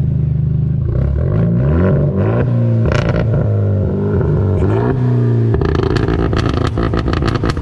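Car engine idling, then revved hard several times, the pitch climbing and dropping with each blip. Near the end the engine settles while rapid sharp crackles sound over it.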